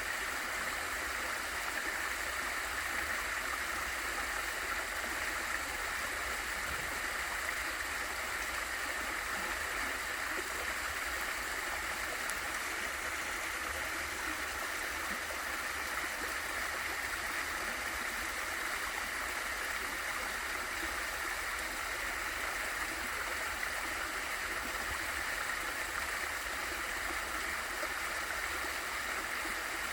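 Waterfall and valley stream: water falling and rushing, a steady even hiss.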